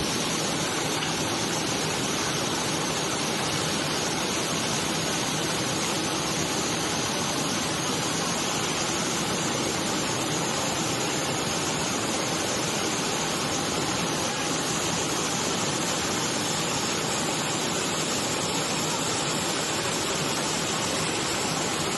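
Rushing floodwater: a steady, even noise with no pauses that cuts off suddenly at the end.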